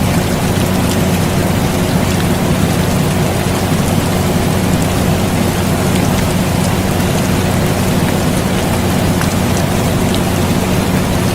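Steady rain hissing with scattered drop ticks, over the constant low hum of an air conditioner.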